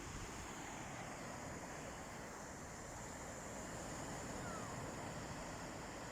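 Calm sea waves washing on the shore: a steady, even rush of surf, heaviest in the low range.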